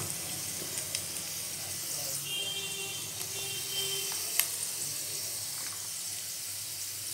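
Diced potatoes frying in hot oil in a pan, a steady soft sizzle with a few small pops.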